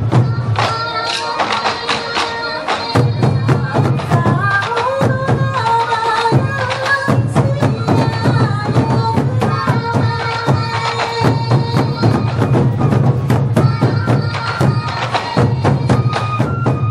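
Traditional temple-procession music: a stepping melody over dense, continuous percussion strokes, loud and steady throughout.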